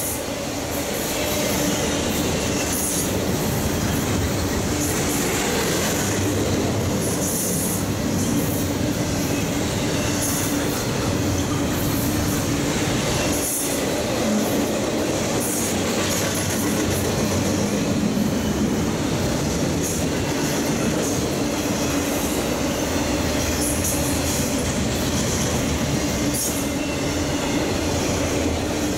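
Intermodal freight cars (truck trailers on flatcars and double-stack container cars) rolling steadily past on jointed or welded track: a continuous loud wheel-on-rail running noise, with short high-pitched squeals or screeches from the wheels recurring every few seconds.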